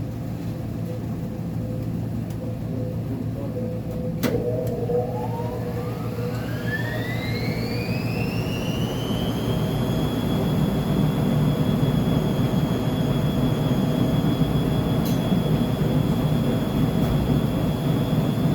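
Uni-Mac UniMat 35 commercial washer-extractor ramping up its drum speed: after a click about four seconds in, a motor whine climbs steadily in pitch for about six seconds, then holds at a high, steady pitch over the machine's low running rumble.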